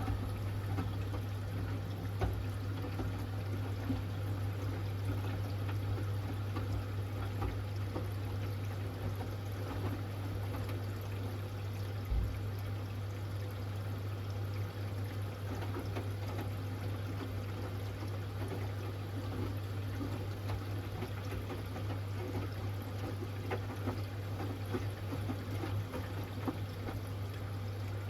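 Hoover Axi 10kg front-loading washing machine with its drain pump running, a steady hum with water gurgling and flowing out of the drum partway through its Rapid 30' programme.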